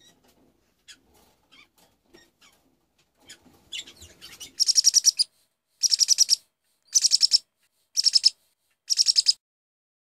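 Faint scattered clicks and scratches, then a bird's loud rapid chirping trill, repeated five times about once a second, each burst about half a second long.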